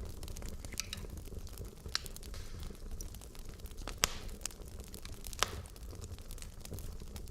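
Wood logs burning in a fireplace: a steady low rumble of the flames with scattered sharp crackles and pops, the loudest pops about four and five and a half seconds in.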